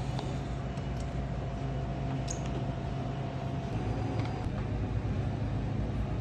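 Steady low mechanical hum, with a few faint light clicks of metal tools working at an espresso machine's group head while the old gasket is pried out.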